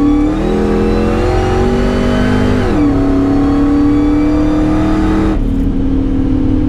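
Supercharged 5.4-litre V8 of a built Ford SVT Lightning pickup at full throttle, its pitch rising as it pulls. About three seconds in, an upshift drops the revs, and the engine climbs again. Near the end the engine eases off to a steady drone.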